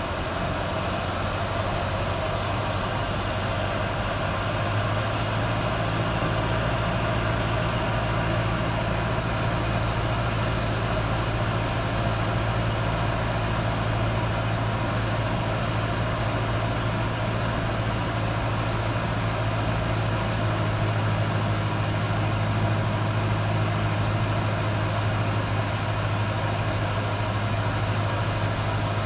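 Cessna 172's piston engine and propeller droning steadily, heard inside the cockpit. The low hum gets a little louder from about five seconds in.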